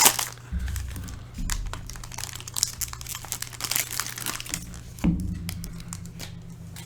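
Trading-card pack wrapper being handled and opened, crinkling and rustling in many short bursts, with a low thump about five seconds in. A steady low hum sits underneath.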